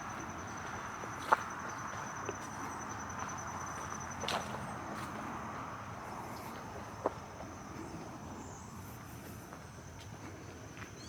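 A cricket's steady high trill runs throughout over a soft outdoor hiss, with a few sharp snaps and ticks from steps on the trail, the loudest about a second in.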